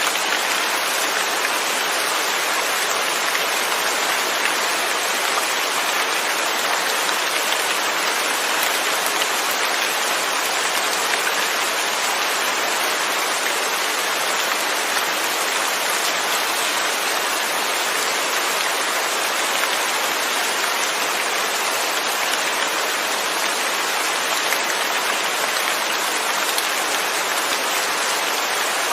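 Steady rain falling, an even hiss of drops with no thunder and no change in intensity.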